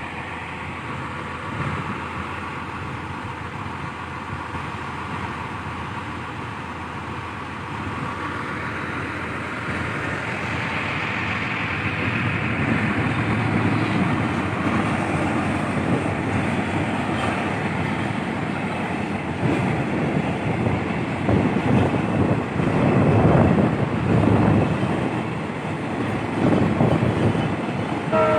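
Heavy earthmoving machinery at work: a diesel engine running under a steady mechanical noise, with an irregular metallic clatter that grows louder over the second half.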